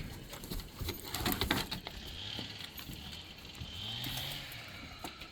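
A dog's paws and nails pattering and scuffling in a quick run of clicks, then settling, with a low hum rising and falling once about four seconds in.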